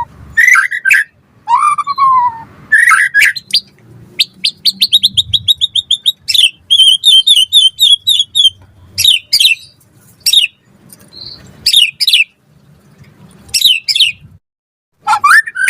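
White-rumped shama (murai batu) singing: loud, varied whistled phrases separated by short pauses, with two long rapid-fire trills of repeated notes through the middle.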